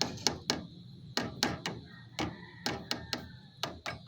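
A series of sharp, irregular knocks and taps, about a dozen, some in quick pairs, as if a hand tool were striking a hard part.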